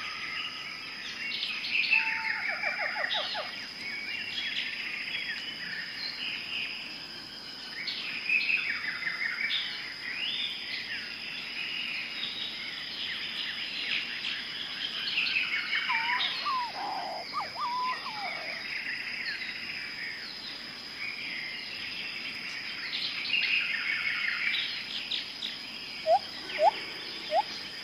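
Several birds chirping and trilling over one another, with a steady high-pitched hum underneath. Near the end come a few short, loud rising calls.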